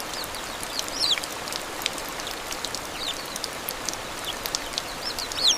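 Steady rain falling, with sharp ticks of single drops. High-pitched chirps from a small bird come through it now and then, with a quick run of them near the end.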